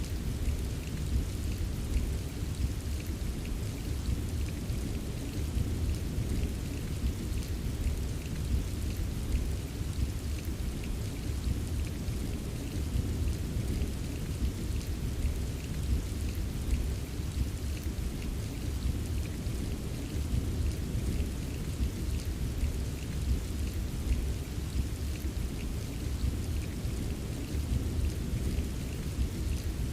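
Steady rain with fine, scattered drop ticks over a continuous low rumble of distant thunder, with no sharp thunderclap.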